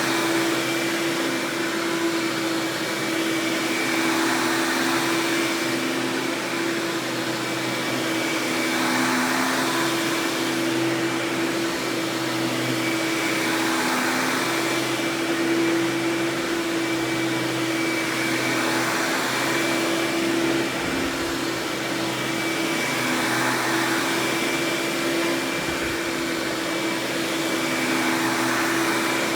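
Hoover Power Drive Supreme upright vacuum running steadily with a constant motor hum and whine, its rushing airflow swelling and easing every two to three seconds.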